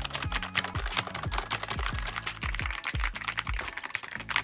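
Rapid typing on a Keychron Q6 HE mechanical keyboard with magnetic Hall-effect switches, a fast run of key clicks. Background music with a steady beat plays underneath.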